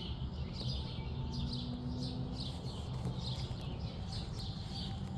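Songbirds chirping: quick, repeated short falling chirps, several a second, over a steady low outdoor rumble.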